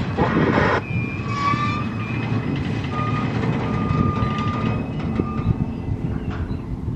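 Freight train cars rolling past with a steady low rumble, and a high-pitched squeal that sounds on and off several times in the first few seconds.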